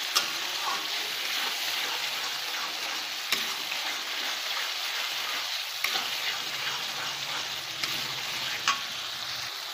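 Onion-and-spice masala sizzling in hot oil in a metal pan, the ground spices frying down as it is stirred. Now and then the stirring utensil strikes the pan with a sharp click.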